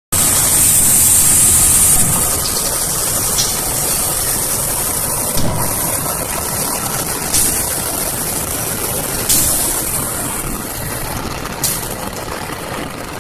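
CC204 diesel-electric locomotive engine working under load while pushing loaded coal wagons: a loud, steady engine sound with a strong hiss for the first two seconds. Sharp clicks come roughly every two seconds, and the sound slowly grows quieter.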